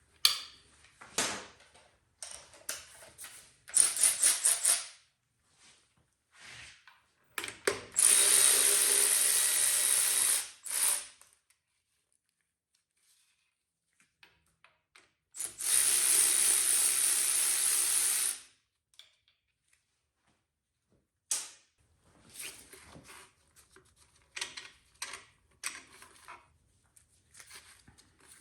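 A handheld power tool runs in two steady bursts of about three seconds each, most likely spinning loose the connecting rod cap bolts on an LT1 small-block V8 under teardown. Scattered clicks and knocks of metal tools and parts come before, between and after the bursts.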